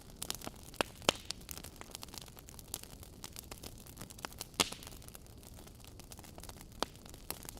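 Wood fire in a fireplace crackling, with irregular sharp pops over a low hiss; the loudest pops come about a second in and again past the halfway point.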